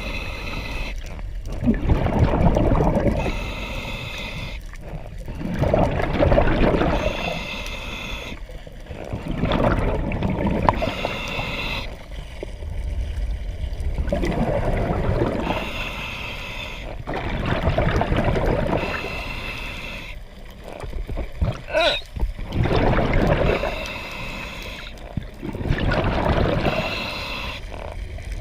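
Scuba diver breathing underwater through a regulator: a hissing inhale, then a rush of exhaled bubbles, repeating every few seconds.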